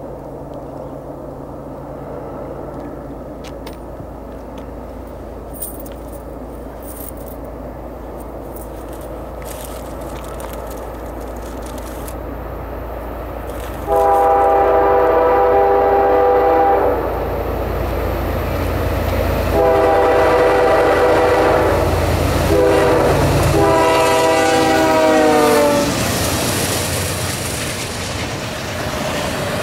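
CSX freight locomotives' diesel engines rumble, growing louder as a double-stack intermodal train approaches. The locomotive's air horn then sounds the grade-crossing signal: two long blasts, a short one, and a long one that drops in pitch as the locomotive passes. The rushing clatter of the stack cars rolling by follows.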